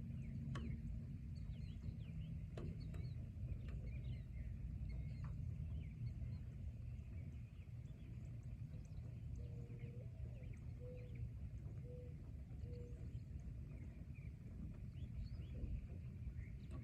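Forest ambience: a steady low rumble with birds chirping throughout. There are two sharp clicks early on, and a run of four or five short, low-pitched calls about ten seconds in.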